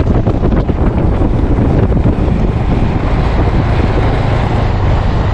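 Steady wind rush on the action camera's microphone on a moving motorcycle, mixed with the bike's running and road noise.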